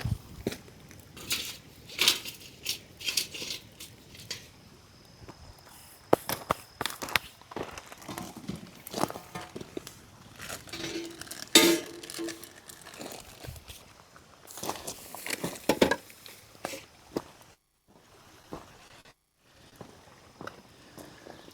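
Irregular clicks, knocks and rustling as things are handled at close range, with a short pitched sound a little past the middle.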